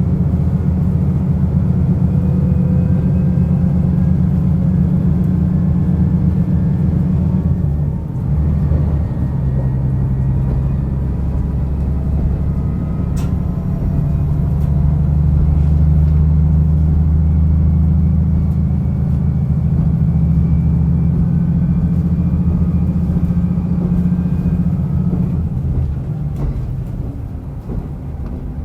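Diesel railcar's engine pulling under power, heard from inside the car, with a brief dip about eight seconds in. The engine note eases off near the end.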